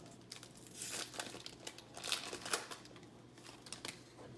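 A trading card pack's plastic wrapper being torn open and crinkled by hand, in irregular crackling bursts.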